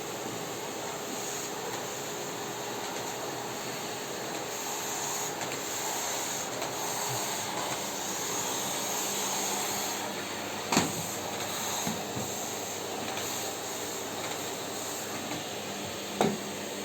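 Electric vacuum cleaner running steadily with a whirring hiss. A sharp knock comes about two-thirds of the way in, and a smaller one near the end.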